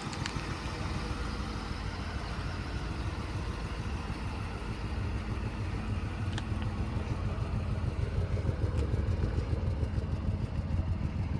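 2008 Ford F-150 pickup's engine running steadily, a low even hum that grows somewhat louder in the second half, with a couple of faint clicks.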